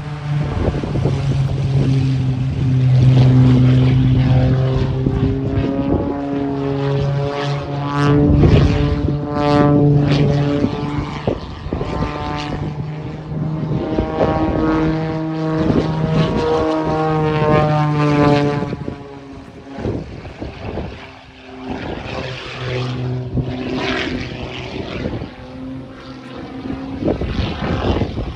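Modified Pitts S-2S aerobatic biplane's piston engine and propeller droning during an aerobatic display, the pitch shifting up and down as it manoeuvres. The engine is loudest for the first two-thirds, then drops back somewhat.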